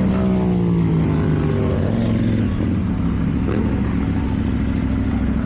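KTM Duke 790's parallel-twin engine through an Akrapovič exhaust, its revs falling away over the first two seconds or so as the throttle closes, then running steadily at low revs.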